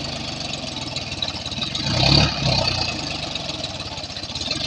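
Tractor's diesel engine running with a steady rapid chug, swelling briefly louder about two seconds in.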